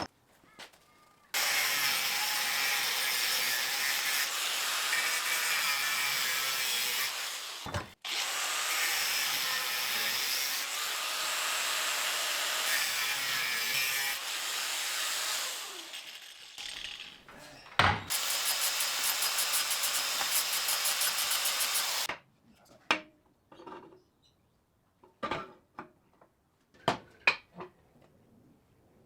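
A metalworking power tool runs loudly in three long stretches, with short breaks about 8 and 18 seconds in. Several separate knocks follow near the end.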